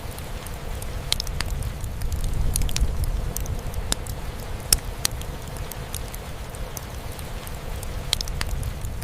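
Steady rain drumming on a roof with a low rumble, over a wood fire crackling with scattered sharp pops, the loudest about halfway through.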